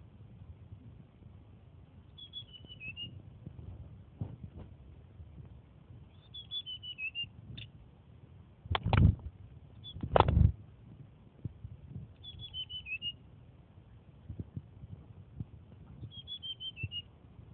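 A young tledekan, still in training, repeats a short song phrase of about five quick notes stepping down in pitch, five times with pauses between. Two loud, deep thumps come in the middle.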